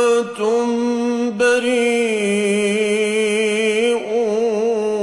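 Male Quran reciter chanting with tajweed, drawing out long melodic vowels with a wavering vibrato. The pitch steps down about four seconds in.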